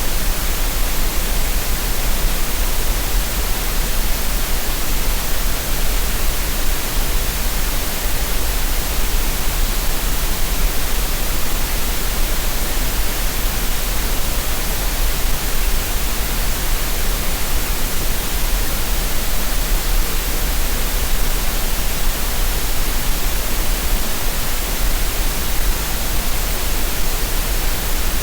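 Steady electronically generated green noise: an even, unchanging hiss with a deep rumble underneath, used for relaxation and tinnitus masking.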